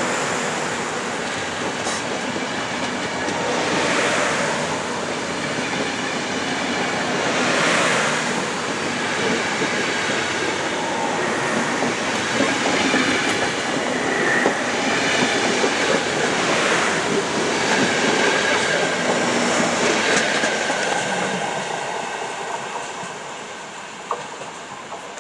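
A train rolling slowly along the station tracks, its wheels clattering, with a swell in the wheel noise about every four seconds and a faint thin squeal. The noise dies away over the last few seconds.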